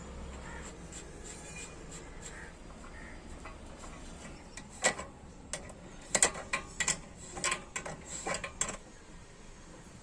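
Light metal clicks and knocks from hand work on metal parts: a quiet stretch, then about a dozen sharp clicks in the second half, some in quick pairs.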